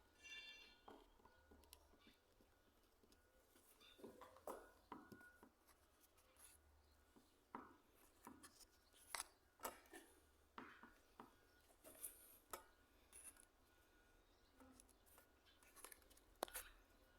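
Faint, irregular clicks and short scrapes of small objects being handled and rubbed, spaced a second or so apart.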